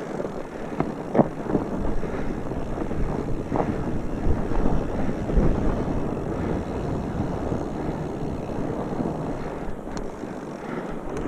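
Wind buffeting the microphone in a steady rumble, with a few sharp knocks, the sharpest about a second in.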